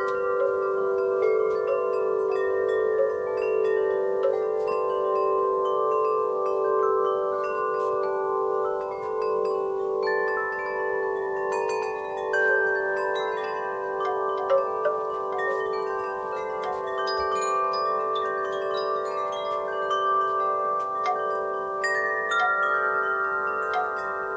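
Wind chimes stirred by the breeze, many tones struck again and again and ringing on so that they overlap.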